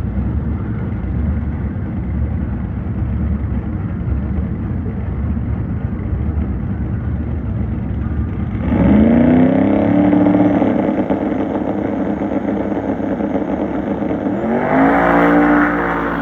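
Street car engine at the drag strip, running with a loud, steady rumble. About eight seconds in it revs up hard and holds, and it revs up again near the end.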